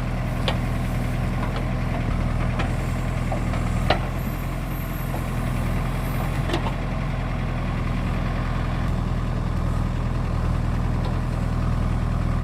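Heavy diesel engine of a backhoe loader or tractor idling steadily, with a few faint clicks over it.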